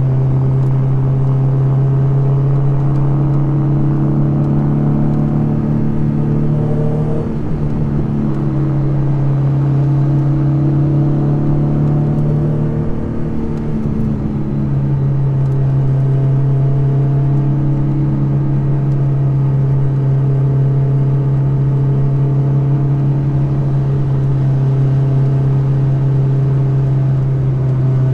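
Mazda Miata's four-cylinder engine and exhaust droning steadily on a canyon road, heard from the open car. The drone is interrupted twice, about seven and thirteen seconds in, as the engine note changes.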